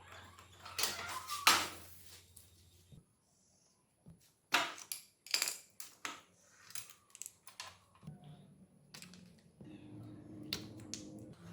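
Hand tools and small metal parts being handled in a workshop: a series of sharp clicks, knocks and metallic clinks at an uneven pace, the loudest about a second and a half in and again near five seconds. A low steady hum comes in about eight seconds in.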